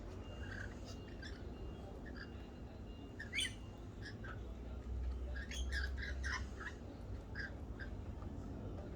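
Small birds at a feeder chirping and calling in short, scattered notes. There is a louder upward-sweeping call about three and a half seconds in and a quick flurry of calls around six seconds.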